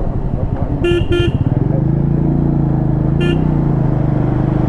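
Motorcycle engine running steadily while riding. A vehicle horn gives two quick toots about a second in, then one more a couple of seconds later.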